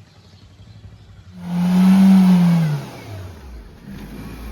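Car engine starting: about one and a half seconds in it catches and revs up briefly, then the pitch falls as it settles to a low, steady idle.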